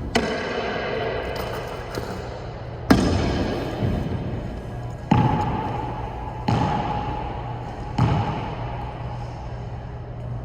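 Tennis balls being hit during stroke practice: five sharp hits spaced a second and a half to three seconds apart, each followed by a ringing echo. A steady low hum runs underneath.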